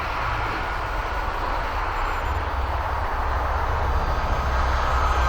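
Strong wind rumbling on the microphone, with the faint, steady, thin whine of an E-flite UMX Timber X's small electric motor and propeller as the plane flies.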